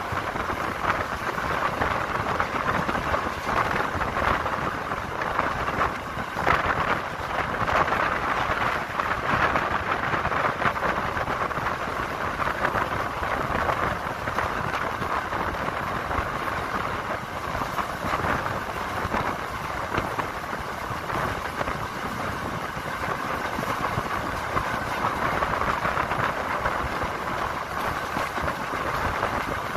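Passenger train in motion: a steady running noise of wheels on the rails and rushing air, with frequent small clatters and rattles throughout.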